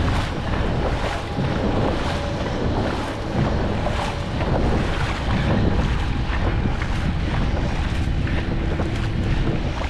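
Wind buffeting the microphone on a moving dragon boat, a steady low rumble. Through it comes the splash of paddles striking the water, roughly once a second.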